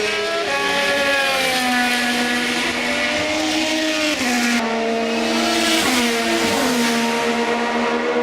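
IndyCar race car engines running at high revs, several cars heard at once, their pitches rising and falling as they shift gears and pass. The sound changes abruptly about four and a half seconds in.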